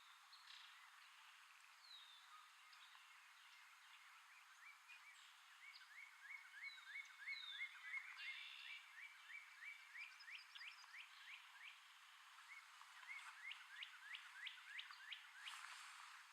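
Faint animal calls: long runs of short rising chirps, about four or five a second, with a few higher falling notes in between.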